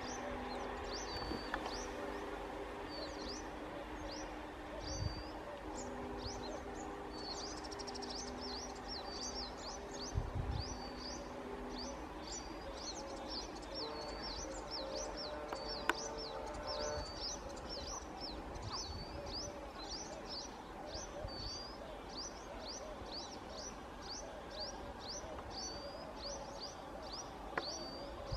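Birds chirping over and over, about two short high calls a second, over a faint low drone that comes and goes during the first half.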